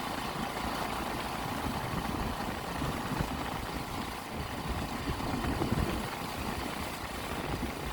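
Motorcycle engine running steadily while riding, mixed with wind rushing and buffeting over the microphone.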